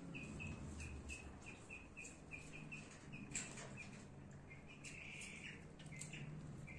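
A small bird chirping over and over, short high chirps about three a second that thin out about halfway, with a few soft clicks.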